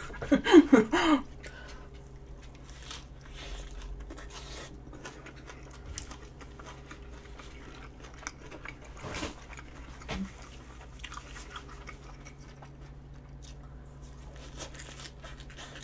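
A person biting and chewing a flatbread salad pizza close to the microphone: soft, scattered crunches and mouth clicks over a faint steady hum, with a short voiced sound in the first second.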